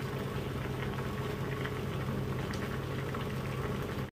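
Pot of saba bananas boiling in water: a steady bubbling with a low hum underneath. It cuts off suddenly near the end.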